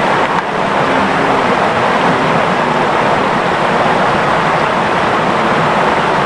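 Clear, shallow river flowing over stones: a steady, unbroken rush and babble of water.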